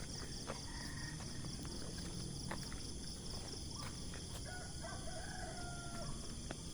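A rooster crowing once, a drawn-out call starting about four and a half seconds in, over a steady high-pitched trill of insects.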